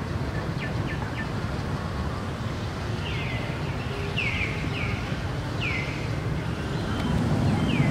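A bird calling repeatedly from about three seconds in: about five short notes, each sweeping downward in pitch. Under the calls there is a steady low background rumble.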